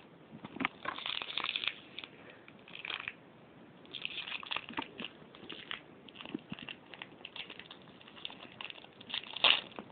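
Packet of fruit-jelly candies being worked open by hand: irregular bursts of crinkling and crackling packaging, with a louder crackle near the end as it gives way.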